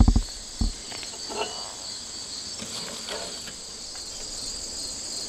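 Steady high chorus of insects, with a few brief knocks in the first second.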